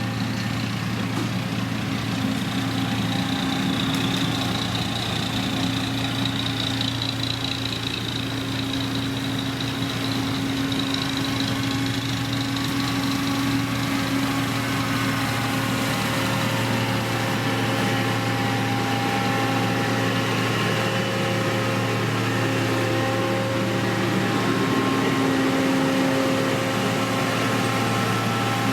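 Diesel engine of heavy road-building machinery, a motor grader or road roller, running steadily, with a high whine through the first half.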